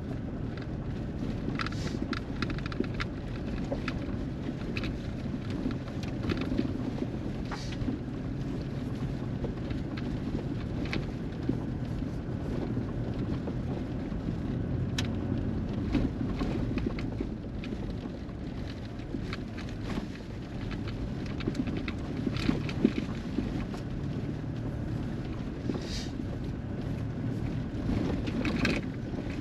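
Pickup truck driving: a steady engine and tyre rumble with scattered brief clicks and rattles.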